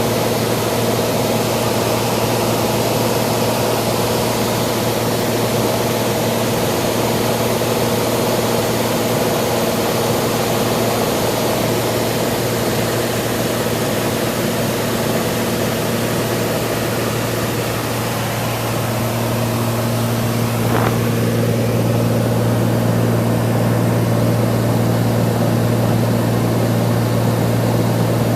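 Cessna 182's piston engine and propeller droning steadily in cruise flight, with rushing air noise over it. The drone holds one steady pitch, its low note growing a little stronger about two-thirds of the way through.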